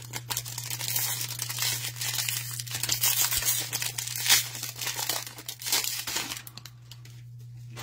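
Crinkling and tearing of a trading-card pack's plastic wrapper being handled and ripped open, fading off near the end, over a steady low hum.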